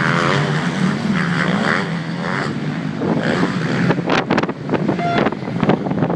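Motocross bike engines revving up and down, with wind buffeting the microphone. A run of sharp knocks and bumps comes in the second half.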